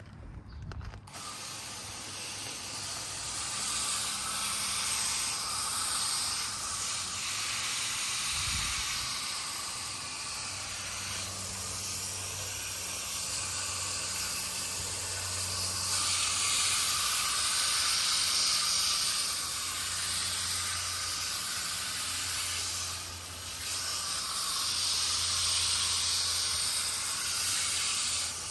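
Air-conditioning package unit running: a steady rushing of air with a low motor hum underneath, starting abruptly about a second in.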